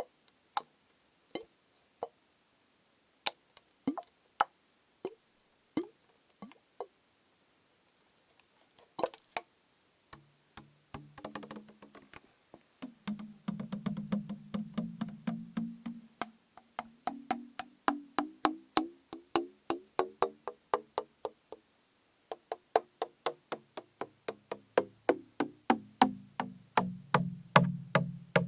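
Tapping on a plastic bottle that holds liquid: scattered single taps at first, then from about ten seconds in a quick steady run of taps, several a second, with a hollow low pitch that shifts up and down.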